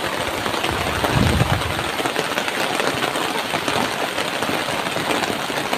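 Heavy rain pouring steadily, with a brief low rumble about a second in.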